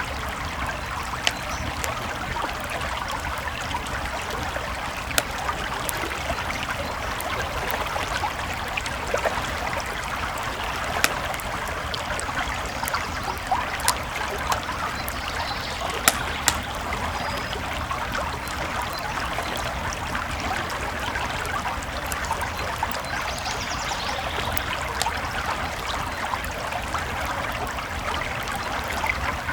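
A creek flowing steadily, with a wood campfire crackling and popping over it in scattered sharp pops, a couple of louder ones about halfway through.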